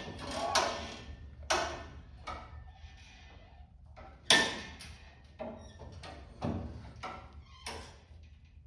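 Sharp metal clanks and knocks, about seven of them at irregular intervals, some ringing briefly, as the bent lower tie bar of the car's front clip is pulled back into alignment.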